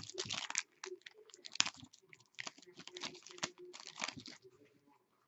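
Foil trading-card pack wrapper crinkling and being torn open, with cards rustling as they are handled; irregular crackly rustles that die away near the end.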